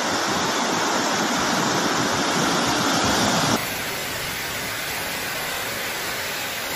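Steady rushing roar of storm wind and water. About three and a half seconds in it changes abruptly to a quieter, even hiss.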